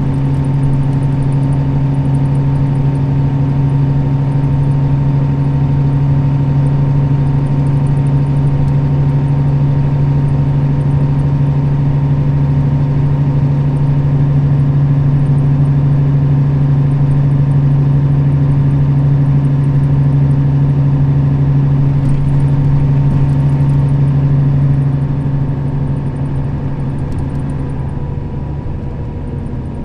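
Nissan Diesel KL-RA552RBN bus running at a steady speed, its diesel engine giving an even, steady drone. About 25 seconds in the drone drops and the bus eases off.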